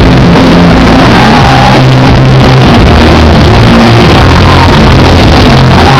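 Live rock band playing loud, with steady bass notes that change every second or so under dense guitar and drums, recorded close to full level.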